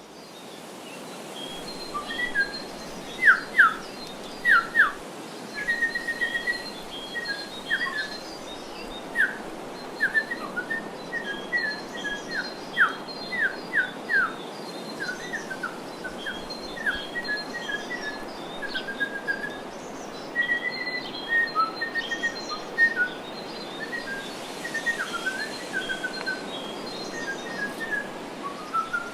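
Songbirds chirping and calling in short, sharp notes, many of them quick downward slides, over a steady background hiss.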